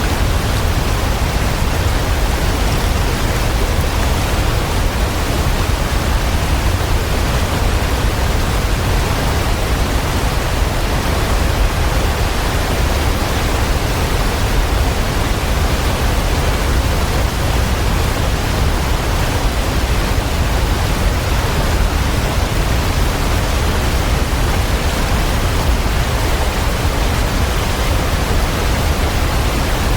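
Waterfall: water falling and splashing in a steady, dense rush, strongest in the low end, without change.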